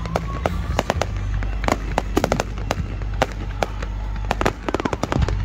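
Fireworks crackling: a dense, irregular string of sharp pops and snaps from crackle-effect bursts, thicker in clusters about two seconds in and again near the end.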